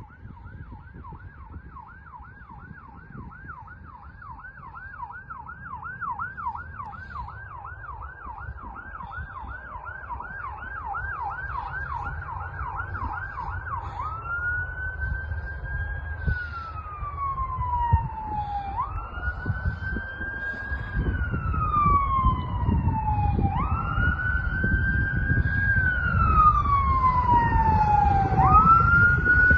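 Fire engine responding with its siren on. For about the first half the siren runs in a fast yelp of about three sweeps a second, then it switches to a slow wail, rising quickly and falling over about four seconds each cycle. The siren and the truck's engine rumble grow steadily louder as it approaches.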